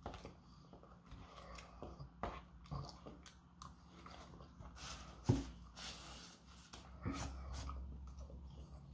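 Close-up chewing and eating sounds, with a plastic fork scraping and tapping in a paperboard food box and paper packaging crinkling. One sharp knock stands out about five seconds in.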